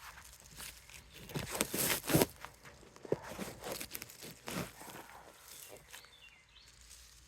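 Irregular rustling, scuffs and knocks of someone moving about outdoors, loudest about two seconds in.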